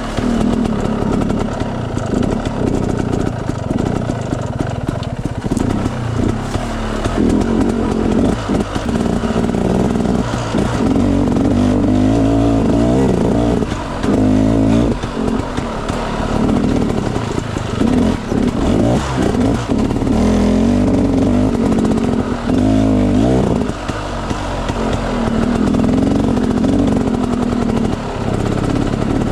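Off-road enduro motorcycle engine ridden on a dirt trail, its revs repeatedly climbing and dropping as the throttle is opened and eased off.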